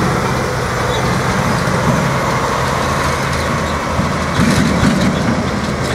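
Train passing close by: a loud, steady rumble and rolling noise, with a low engine drone that drops out about halfway through.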